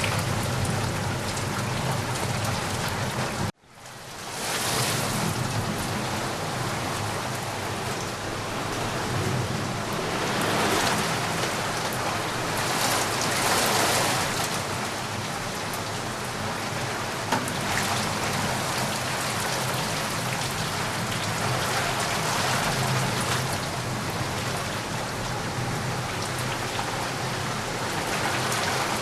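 Steady rain falling, an even hiss with gentle swells. About three and a half seconds in, it cuts out abruptly for a moment and fades back up.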